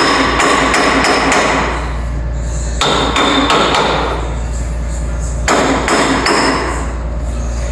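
Hammering on steel in three bursts of quick strikes, each burst lasting about two seconds with short pauses between.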